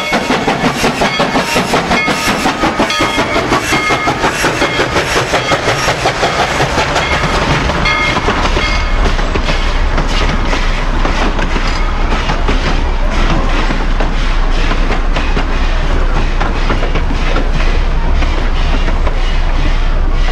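Steam locomotive on a narrow-gauge railroad working hard, its exhaust beats coming about four a second. After about eight seconds the beats blend into a steadier running sound of the moving train.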